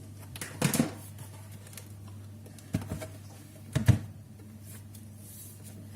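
Objects being handled and set down on a table: a few short knocks and rustles, the loudest about four seconds in, over a steady low hum.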